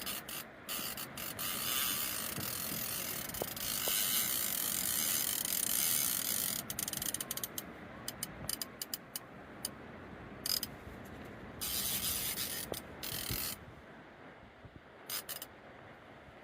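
Fishing reel working under the load of a hooked sturgeon: gears and a ratchet clicking, with two louder rasping spells of cranking or line going through the reel.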